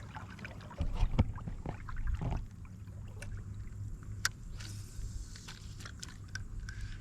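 Scattered knocks and clicks of handling gear on a kayak over a steady low rumble, the sharpest click about four seconds in.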